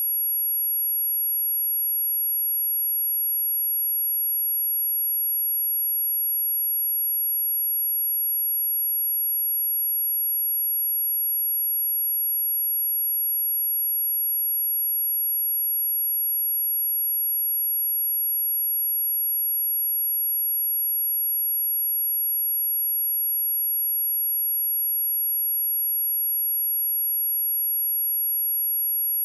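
A single steady 11368 Hz sine-wave test tone: one continuous very high-pitched whistle at an even level.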